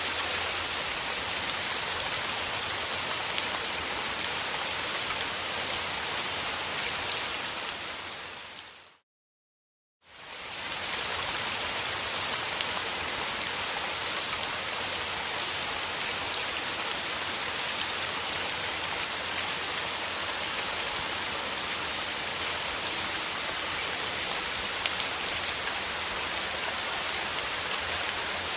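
Steady rain with scattered drop ticks. About nine seconds in it fades out to a second of silence, then fades back in.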